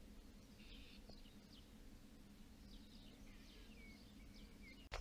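Faint birdsong: scattered chirps and short whistled notes from small birds, over a low steady rumble of wind. A sharp click near the end.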